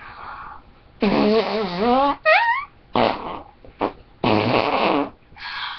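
A person imitating farting sounds: about five loud, wavering, buzzy blasts of a second or less each, one of them sliding upward in pitch partway through.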